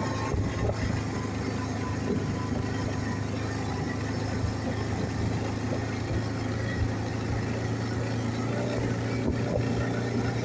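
ATV engine running at a steady pitch while riding along.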